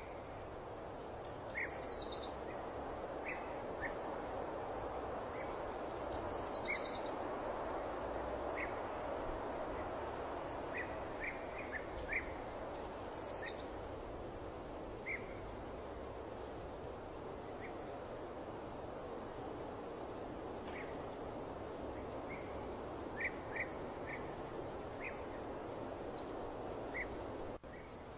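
Birds chirping over a steady background hiss. Short chirps come scattered throughout. Three times a bird gives a quick run of high notes falling in pitch.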